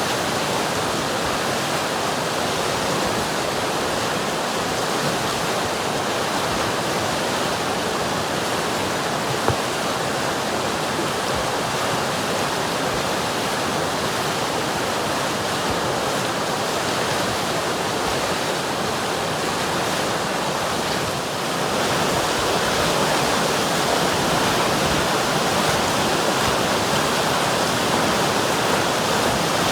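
River water flowing steadily with a continuous rushing sound, becoming a little louder about two-thirds of the way through.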